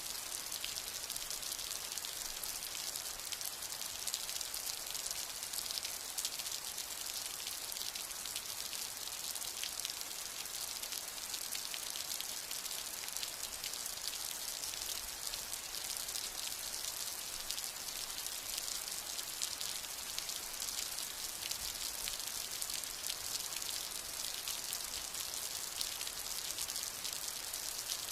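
Steady rain: an even hiss with a dense patter of drops, holding constant throughout.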